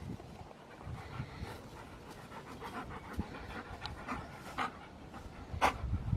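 A dog panting, with a short sharp noise near the end.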